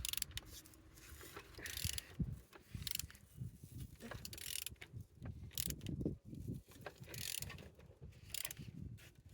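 Renault K9K 1.5 dCi diesel engine being turned over by hand: a run of irregular mechanical strokes with clicks and short rasps. It turns freely, showing the engine is not seized.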